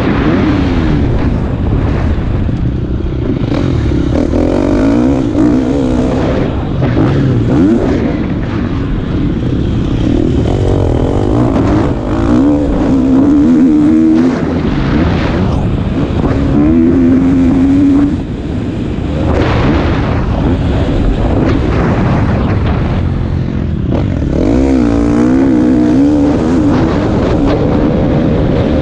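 KTM SX-F 250 motocross bike's four-stroke single-cylinder engine, revved hard and shifting as it rides the track. The pitch climbs and drops over and over, with a short drop in level about eighteen seconds in, over a heavy rumble.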